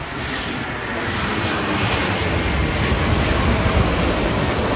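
Airbus A320 jetliner passing low overhead on final approach, its engine noise a broad rush with a heavy low rumble that grows louder over the first second or two and then holds.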